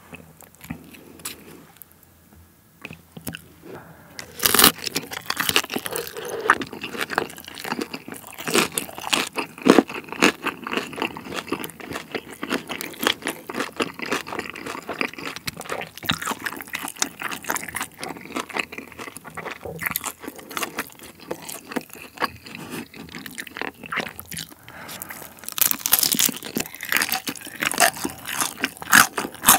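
Close-miked chewing of crisp white-battered tangsuyuk (Korean-Chinese fried pork): dense crackly crunching that starts about four seconds in after a few faint clicks, with a fresh, louder bite near the end.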